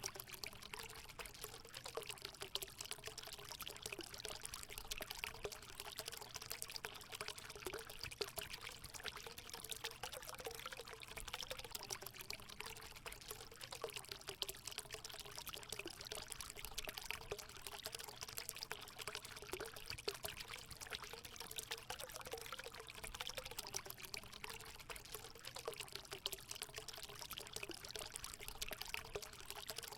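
Water pouring and trickling steadily into a hot spring pool, a continuous splashing with a low bubbling gurgle.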